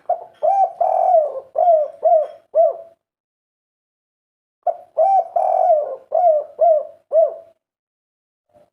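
Spotted dove (tekukur) cooing a 'kuk 3' song: two phrases of several quick arched coos, with a gap of about two seconds between them.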